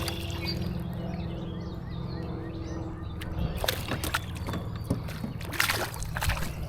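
Water sloshing and splashing around a kayak, with a run of sharp knocks and splashes starting a little past halfway. Faint bird chirps come early, over a steady low hum.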